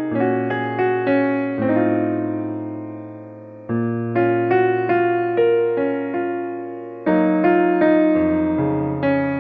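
Background piano music: a keyboard plays a gentle melody over slow chords, with struck notes that fade away, and new chords come in at about 1.5, 3.5 and 7 seconds.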